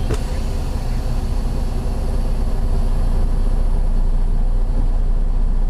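Detroit diesel engine of a 2012 Freightliner Cascadia semi truck idling with a steady low rumble, growing slightly louder about two seconds in.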